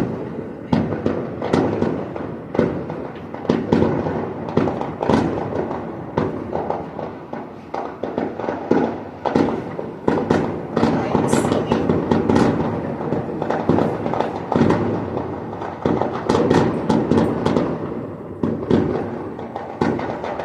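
A long barrage of fireworks going off, dense sharp bangs several times a second with overlapping crackle and no break.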